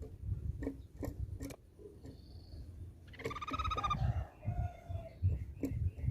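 A tepus pipi perak (crescent-chested babbler) giving a short, rapid buzzy chattering call about three seconds in, trailing off into softer lower notes. Scattered sharp clicks and a low rumble run underneath.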